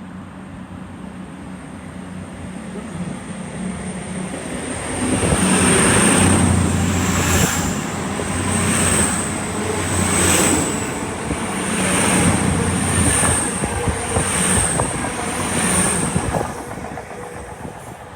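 CrossCountry Class 221 Voyager diesel multiple unit going past close by. It builds up, then swells regularly about every second and a half as each bogie passes, with a high whine rising and falling over the engine and wheel noise, and fades away near the end.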